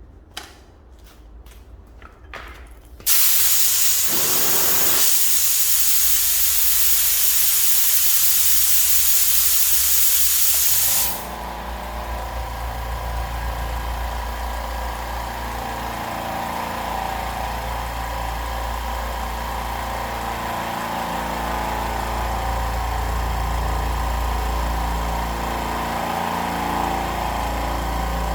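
A few clicks, then compressed air hissing loudly out for about eight seconds. The hiss cuts off suddenly and a low-noise oil-less 4.5 hp air compressor runs steadily with a hum.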